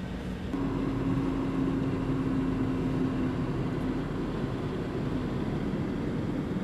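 Steady engine and road noise of a car driving, with a steady hum that comes in about half a second in and fades after a few seconds.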